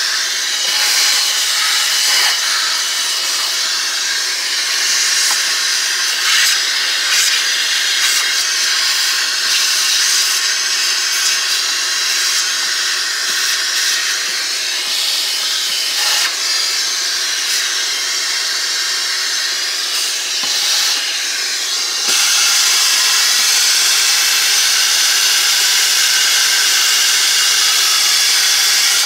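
Steady, loud hiss of rushing air as dust and lint are cleaned out of a space heater, with occasional short scraping or rubbing sounds. About 22 seconds in the rush becomes louder and more even.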